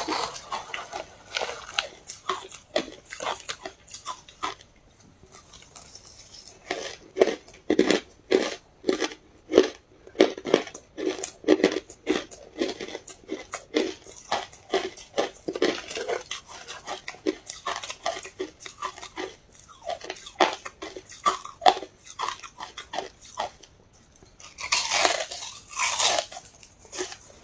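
Close-miked chewing of ice: a run of short, crisp crunches, about two a second through most of the stretch. A louder, longer noise comes near the end.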